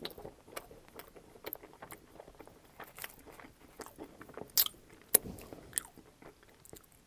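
A person chewing a mouthful of pizza with ranch dressing, with wet mouth clicks and smacks; a few sharp smacks in the second half are the loudest.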